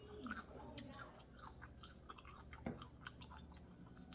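A person chewing crispy fried chicken, with irregular soft clicks and small crunches.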